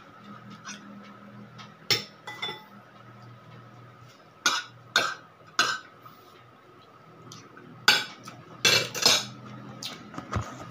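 Cutlery clinking against plates and dishes while eating, in about nine sharp, irregularly spaced clinks, with a faint steady hum underneath.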